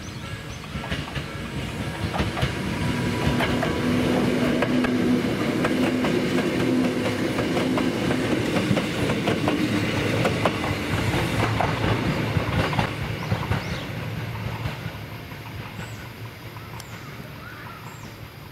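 Hakone Tozan Railway Series 2000 electric train passing close by: a rumble with its wheels clacking over the rail joints, alongside a steady hum. It builds up over the first few seconds, is loudest in the middle, and fades as the train moves away.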